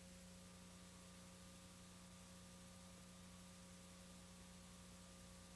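Near silence: a faint steady electrical hum with a low hiss, the background noise of a VHS tape playback and transfer.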